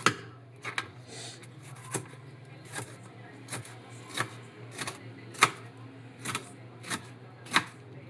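A kitchen knife knocking through food onto a cutting board, about one sharp cut every 0.7 s, over a steady low hum.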